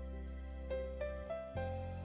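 Soft background music: gentle piano-like keyboard notes over a sustained low bass, with a new note or chord about every half second.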